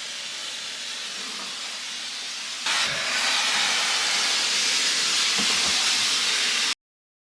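Wallpaper steamer hissing steadily as it steams the old wallpaper. It gets suddenly louder a little under three seconds in, then cuts off abruptly near the end.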